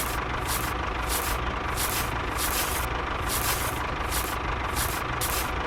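Small motor of a miniature DIY tractor rig running steadily: a low hum with a constant whine, broken by short hissing bursts about two or three times a second.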